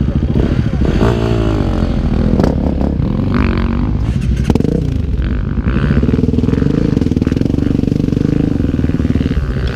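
Dirt bike engine revving up and down under the throttle for several seconds, then holding a steady, higher pitch for about four seconds before easing off near the end.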